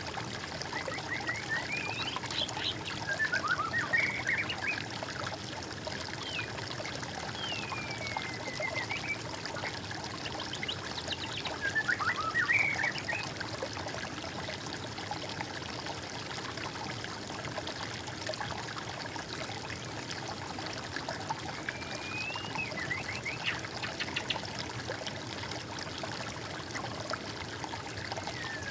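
Water trickling steadily, with birds singing over it in scattered short phrases of whistled, sliding notes.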